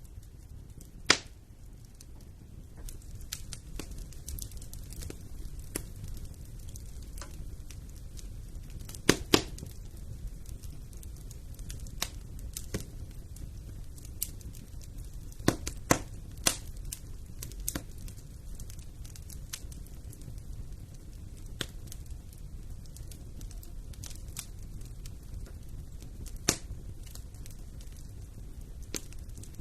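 Wood fire burning in a fireplace: a low steady rumble of flame with irregular crackles and a few sharp pops, the loudest about a second in, around nine seconds, around sixteen seconds and near the end.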